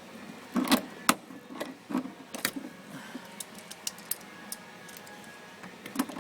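Pliers working the height-adjustment nut in a refrigerator door's bottom hinge, with the door being lifted: irregular clicks and knocks, a few close together about a second in and others spread through the rest.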